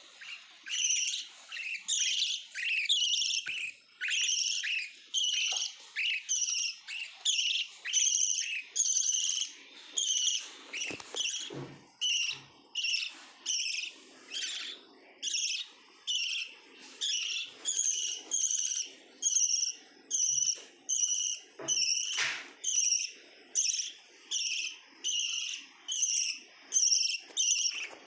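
Pet lovebird chirping over and over in short, sharp, high calls, about two a second.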